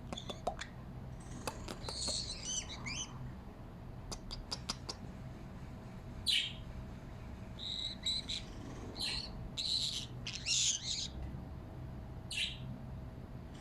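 Pet parrot chirping in short, high-pitched bursts, several separate calls over the stretch, with a few sharp clicks in between.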